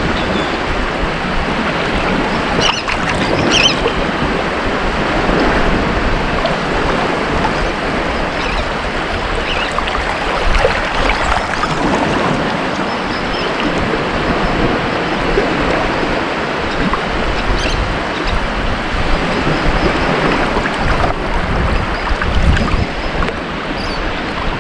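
Ocean surf washing onto a beach: a continuous rushing of breaking waves that swells and eases every few seconds.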